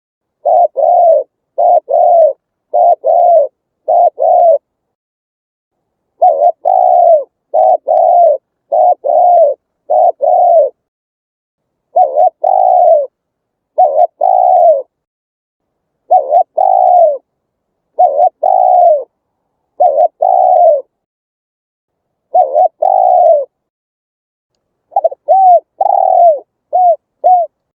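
Spotted dove cooing loudly: groups of two to five coos, each about half a second long, with pauses of one to two seconds of dead silence between the groups. Near the end the coos come shorter and quicker.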